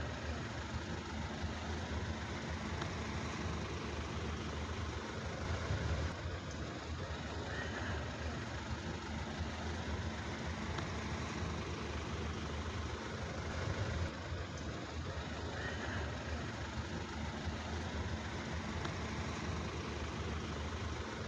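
Steady outdoor background noise, an even hiss over a low rumble with no distinct events.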